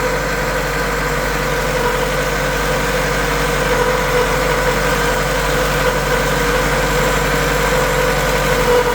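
Volkswagen GTI four-cylinder engine running on a carburettor and points ignition, idling steadily at an even speed while its ignition timing is set.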